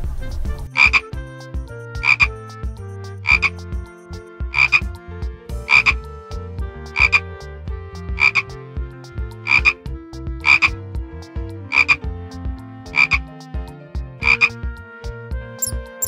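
A frog croaking: short calls repeated at an even pace, about one every 1.2 seconds.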